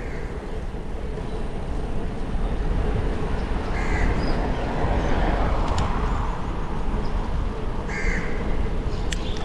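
A bird calls twice in short calls, about four seconds apart, over a steady low rumble of wind and riding noise on the microphone.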